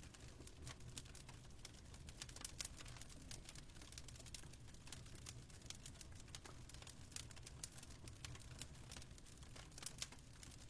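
Fireplace fire crackling faintly: irregular small pops and snaps over a low steady rumble.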